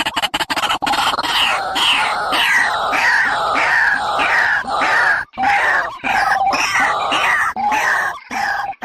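A bird calling loudly in a regular series of harsh notes that slide downward in pitch, about two a second, after a brief fast rattle at the start.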